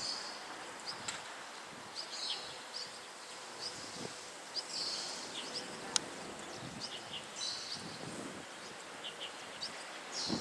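Many short, high-pitched peeps and chirps scattered throughout, typical of common moorhen chicks calling, over a steady outdoor background hiss. There is a single sharp click about six seconds in.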